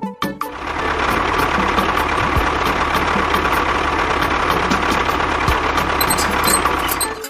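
An engine running steadily; it comes in about half a second in and cuts off shortly before the end.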